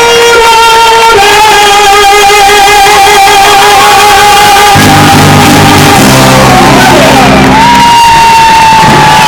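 Live music from a band, very loud, with a voice holding long sustained notes over changing chords.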